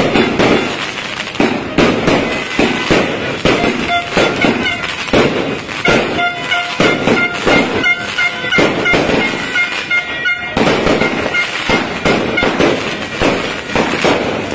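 Multi-shot fireworks cake firing continuously: a dense, unbroken run of shots and aerial bursts, about two loud reports a second, with crackling between them.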